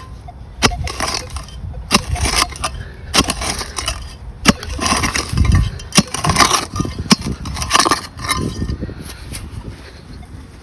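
A metal detecting digging tool cutting into soft, damp soil, with scrapes and a string of sharp irregular knocks and clinks as it strikes stones and grit.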